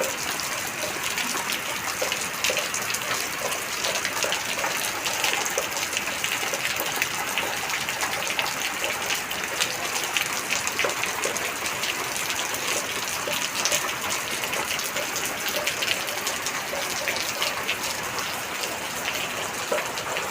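Heavy rain falling steadily, with many individual drops pattering and splashing close by.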